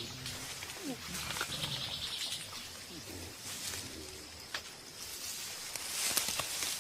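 Mountain gorillas making short, low grunting calls to one another while foraging, over a pulsing high chirr of forest insects or birds, with a few sharp clicks.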